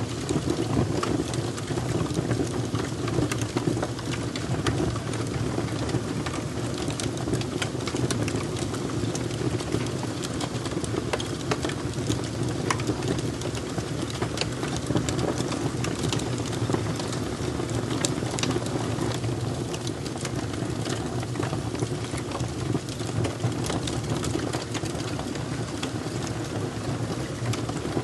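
Wood fire crackling: a steady low rumble of burning with frequent small, sharp pops and snaps scattered throughout.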